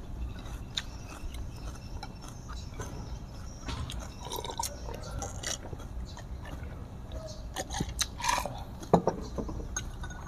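People chewing food with closed mouths: soft, wet smacks and small mouth clicks, a few louder near the end, over a faint steady low hum.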